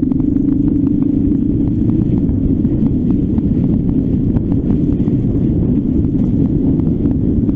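Trail motorcycle engine running steadily while riding over a rough green lane, with many short clicks and knocks scattered through it from stones and the bike's rattles.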